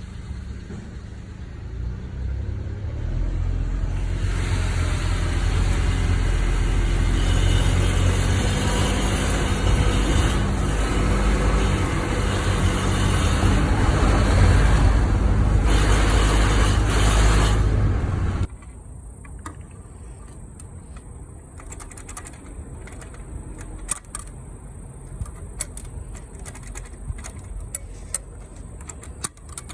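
Honda N-ONE turbo kei car accelerating under load at about 2000 rpm, with the engine note building to a loud, low drone. The drone carries the resonance noise that the dealer traces to the turbo's electric wastegate actuator, and which Honda calls normal operating sound. It stops abruptly about 18 seconds in, leaving a quiet background with scattered ticks.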